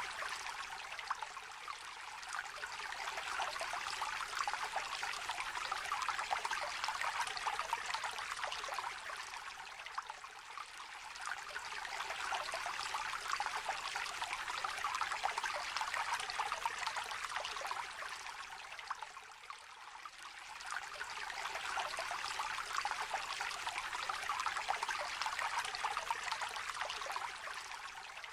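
Small river trickling and babbling over stones, a steady fine splashing whose level swells and eases every several seconds.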